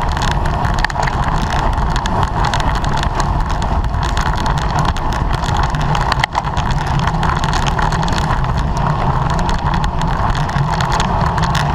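Wind rushing and buffeting over a camera microphone on a bicycle ridden at race speed, a loud steady rush with a short dip about six seconds in.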